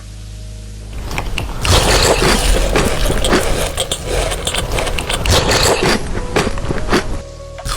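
Close-up crackling and scraping of chocolate being eaten. It starts after a quieter first second and a half and drops away near the end.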